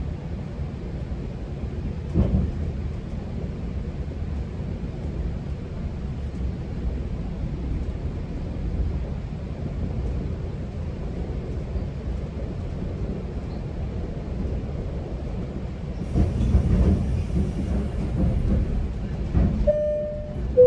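Steady low rumble of a GO Transit passenger coach running on the rails, heard from inside the car. There is a single knock about two seconds in and a louder, rattling stretch near the end. It closes with a falling two-note chime from the onboard PA that leads into a station announcement.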